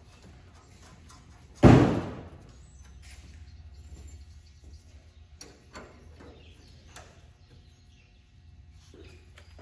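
A single loud bang about two seconds in that rings off briefly, followed by a few faint knocks and clicks of work being done.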